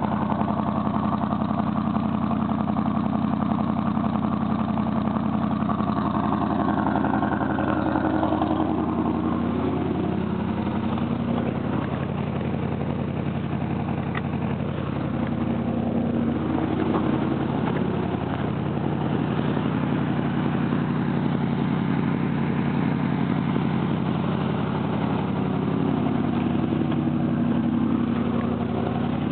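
1982 Chevrolet Caprice's 305 V8 idling steadily, still cold about a minute after a cold start following two weeks unused.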